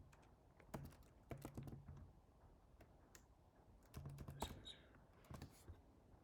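Faint, scattered keystrokes and clicks on a computer keyboard, with a short low hum twice.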